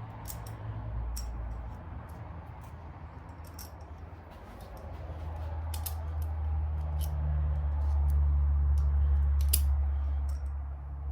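Small metal clicks and clinks of engine parts and hand tools being handled during an engine teardown, over a low rumble that grows louder about halfway through.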